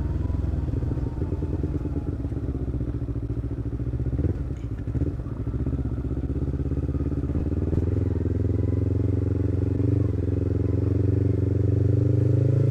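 Motorcycle engine and exhaust running under way at a steady cruise, its pitch slowly rising near the end as it accelerates, with a few brief knocks about four to five seconds in.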